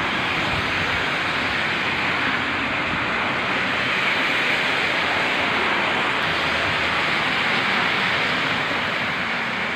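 Heavy storm rain driven by strong wind, a steady dense rush that eases slightly near the end.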